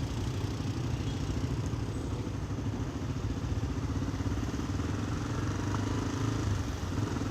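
Motorcycle engine running at a steady, even pitch with a fast pulsing beat, over a light hiss of wind and road noise.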